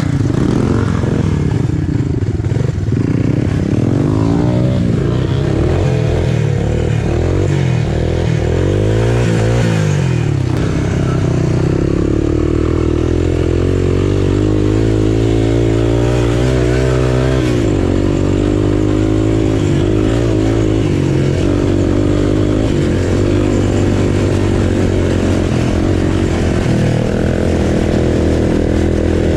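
Small single-cylinder four-stroke off-road engine running hard on the trail, its pitch rising and falling with the throttle and gear changes over the first ten seconds, then holding steadier.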